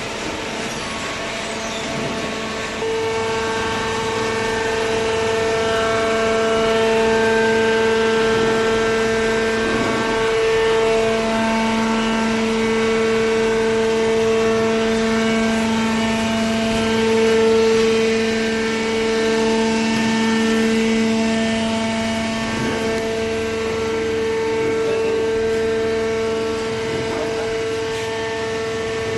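Hydraulic paper baler running: a steady machine whine and hum that steps up in level about three seconds in.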